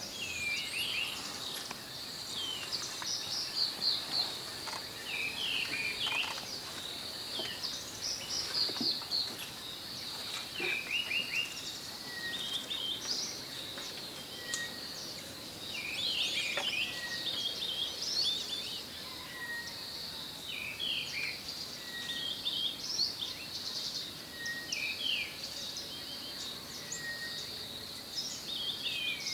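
Several wild birds chirping and trilling over a steady high-pitched drone, with one short note repeated about every second and a half through the second half.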